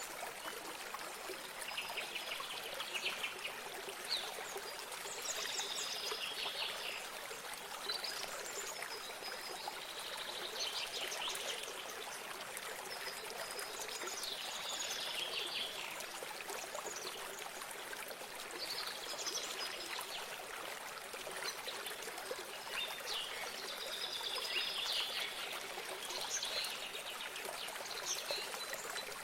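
Running water trickling steadily, with a songbird singing short phrases about every three to five seconds.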